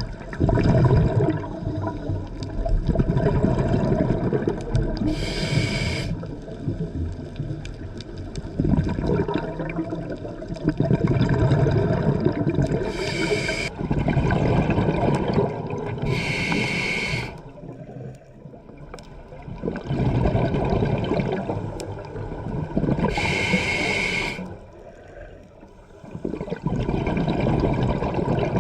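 Scuba diver breathing through a regulator underwater: four short hissing inhales through the demand valve, with long rumbling, gurgling streams of exhaled bubbles between them.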